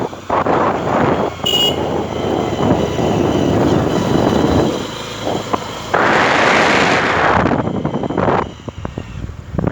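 Wind rushing and buffeting over the microphone of a moving motorcycle, mixed with engine and road noise, swelling in a strong gust around the middle. A short high beep sounds about one and a half seconds in.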